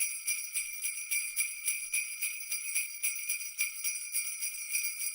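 Sleigh bells (jingle bells) shaken in a steady, even rhythm, with a bright continuous jingling.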